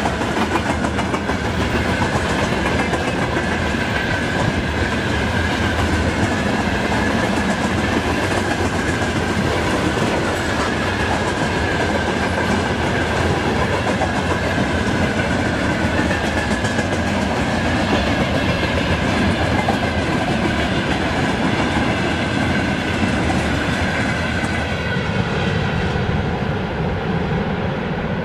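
Train rolling past close by, its wheels clattering over the rail joints with a steady high ringing above the rumble. The noise changes and starts to thin near the end as the last cars go by.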